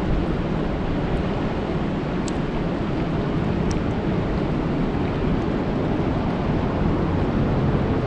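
Steady rain falling on a lake, an even hiss with a few faint ticks.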